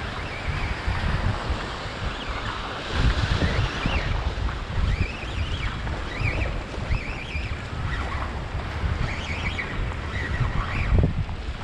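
Wind buffeting the microphone with waves washing on the shore, and short high wavering chirps coming and going over the top.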